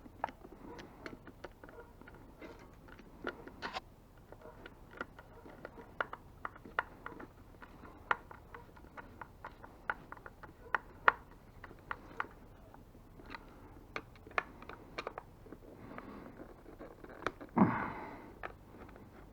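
Irregular small clicks and taps of hand tools and loose bolts and washers being handled while the e-bike controller's mounting hardware is taken off, with one louder thump near the end.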